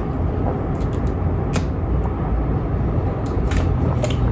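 A steady low rumble with a few short, sharp clicks and smacks from eating scattered through it.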